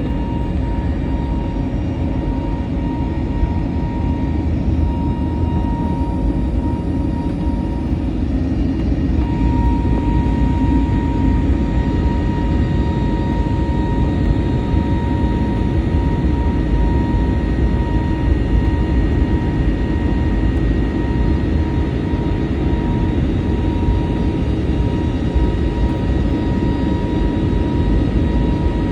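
Passenger jet's engines and airflow heard from inside the cabin: a steady low rush with a few steady whining tones above it, growing slightly louder about a third of the way in.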